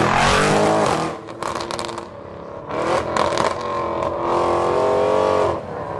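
Car engines revving and accelerating away, the pitch climbing through the gears, with stretches of sharp crackling between the pulls.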